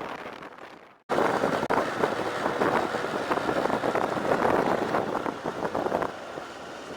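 Wind rushing over the microphone with road noise from a motorbike on the move. It fades out about a second in, cuts back in suddenly and louder, and eases off near the end.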